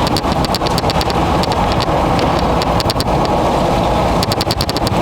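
Vehicle driving on the road, with steady road and wind noise inside the cabin and many irregular sharp ticks of rain hitting the car, coming in thicker clusters near the start and near the end.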